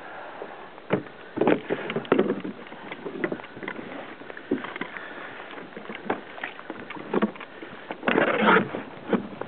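Water splashing and sloshing around a kayak, with scattered knocks and bumps on the hull. A longer, louder burst of splashing comes near the end.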